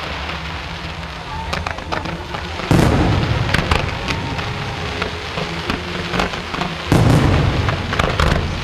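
Fireworks going off: two loud booms about four seconds apart, with sharp crackling and popping between them, over steady background music.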